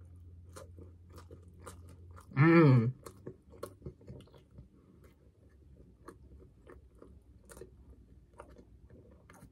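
Close mouth sounds of a person chewing pizza: many small wet clicks and crunches, with one short hummed vocal sound about two seconds in.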